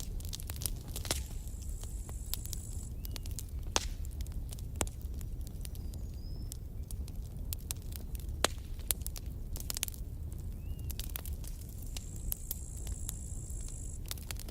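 Campfire burning: wood crackling with irregular sharp pops and snaps over a low steady rumble. A faint steady high-pitched whine is heard in the first few seconds and again near the end.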